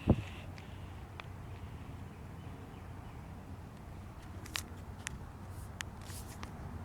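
Quiet outdoor background with a low steady hum: a knock right at the start, then a few light, scattered clicks and a soft rustle.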